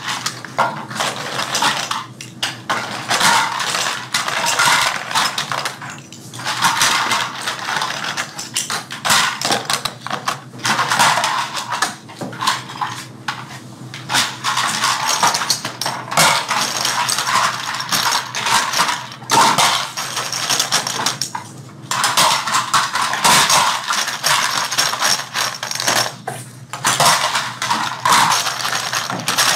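Toy airplane parts being handled and fitted together by hand at several workstations: an unbroken, irregular run of small hard clicks and clatter.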